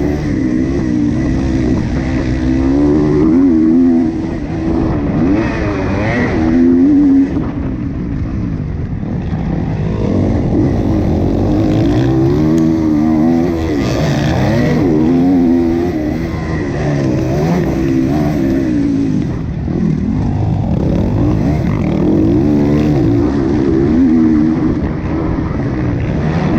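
Motocross bike engine running hard, its revs climbing and dropping again and again as the throttle is opened and closed.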